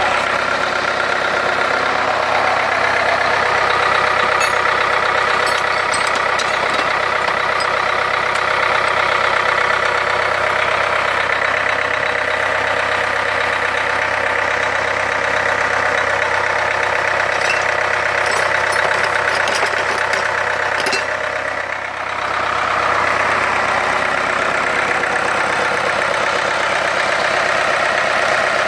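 Freshly reconditioned Mitsubishi 4D32 four-cylinder diesel engine on a test run, running steadily at idle. About three-quarters of the way through, the level dips briefly, then picks straight back up.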